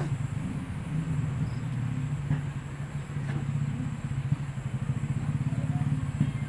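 A small engine idling steadily with a rapid, even low pulse, with a few faint clicks over it.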